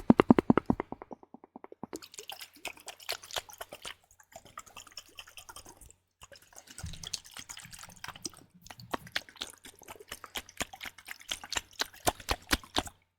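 Close-miked wet liquid sounds: a dense run of small clicks, crackles and drips, opening with a fast rattling burst in the first second.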